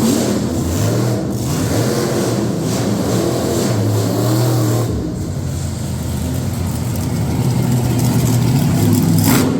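Monster truck engine running and revving, its pitch stepping up and down, with a sharp crack shortly before the end.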